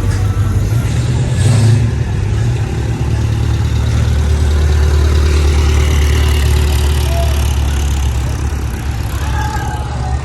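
A car engine running at low revs with a loud, steady low rumble, which drops to a deeper pitch about two and a half seconds in and holds there.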